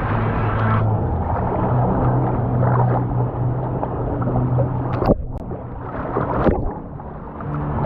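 Fast-flowing lazy-river water rushing and gurgling under a steady low hum, with two sharp splashes about five and six and a half seconds in.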